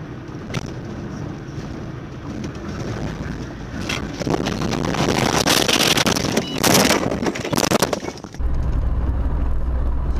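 Vehicle road and wind noise picked up by a dashcam, growing louder, with loud rushing and crackling from about 4 to 8 seconds in. It then switches abruptly to a steady low engine drone.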